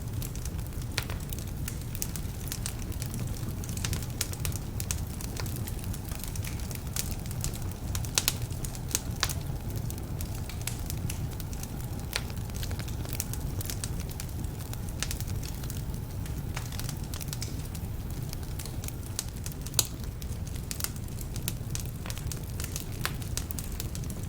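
Wood fire burning in a fireplace: a steady low rumble of flames with frequent irregular crackles and a few louder pops from slightly damp logs.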